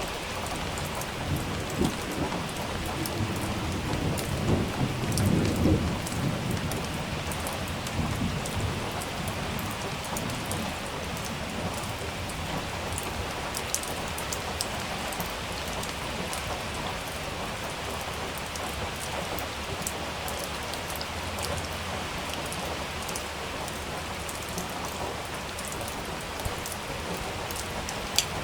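Heavy rain pattering steadily on a surface with close drop splashes, while a roll of thunder rumbles low, building over the first few seconds, peaking about five seconds in and fading by about nine.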